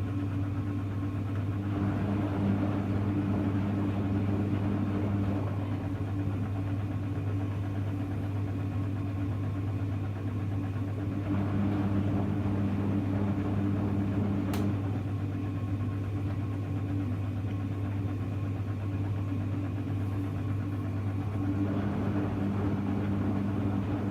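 Hoover Electra front-loading washing machine tumbling its load: the drum motor runs for about three seconds, stops, and starts again roughly every ten seconds, with the swish of wet laundry over a steady low hum. A single click comes as one run stops.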